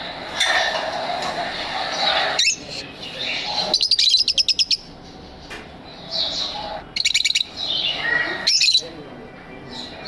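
Lovebirds chirping and chattering continuously. A few quick trains of rapid, evenly repeated high chirps stand out, about four and seven seconds in.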